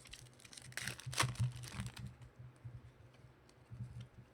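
Trading cards and foil pack wrappers being handled: irregular rustling, crinkling and light clicks, busiest about a second in, over a steady low hum.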